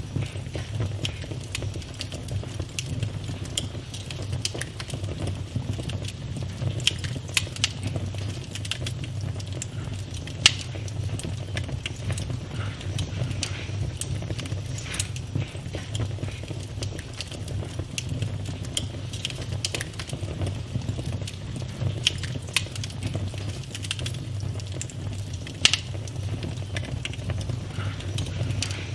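Campfire burning: irregular crackles and sharp pops of burning wood over a steady low rumble, with one louder pop about ten seconds in and another a few seconds before the end.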